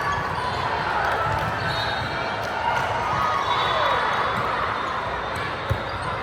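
Gym ambience during a volleyball match: an echoing murmur of voices from players and spectators, with one sharp thump near the end.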